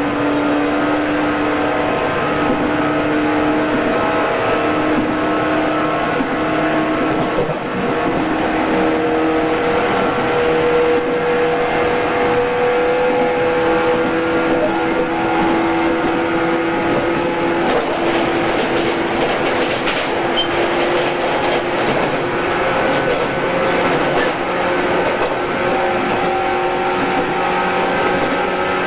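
JR East 113 series electric train running, its traction motors giving a steady hum whose pitch changes now and then over a continuous rumble of wheels on rail. Faint clicks of rail joints come through in the middle.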